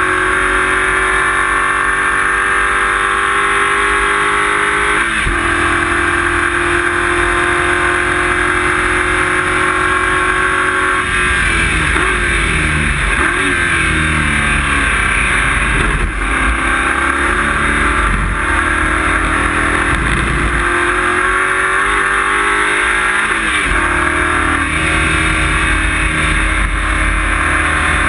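Race car engine heard loud from inside the cabin. It holds steady revs at first, then from about ten seconds in the revs rise and fall again and again, and near the end it settles back to a steady note.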